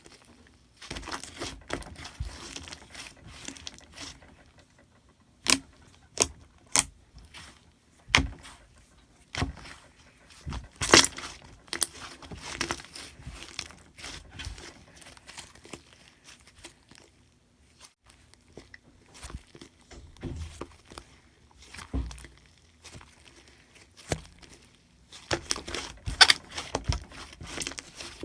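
Close-up handling noise: material being crinkled and torn by hand, with scattered sharp clicks and taps. The sound comes and goes in irregular bursts, with a couple of quieter pauses.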